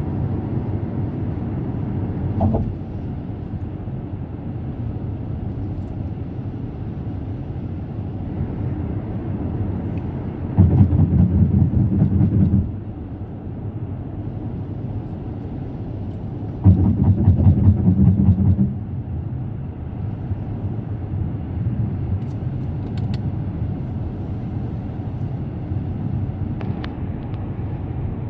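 Car cruising on an expressway: steady tyre and road noise. Twice it turns into a louder rapid rhythmic drumming that lasts about two seconds each time, about ten seconds in and again about seventeen seconds in.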